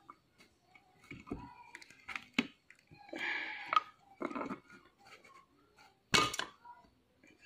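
Small metal parts of an opened hard disk drive handled by hand: scattered light clicks, taps and scrapes, with a louder clatter about six seconds in.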